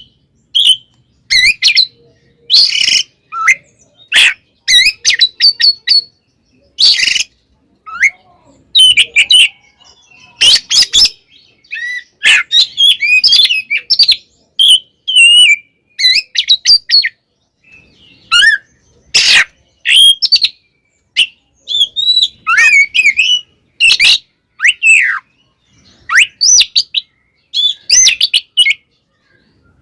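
Oriental magpie-robin (kacer) singing in an agitated, fighting mood. It gives rapid runs of varied whistled notes that sweep up and down, broken every few seconds by short harsh rasping bursts.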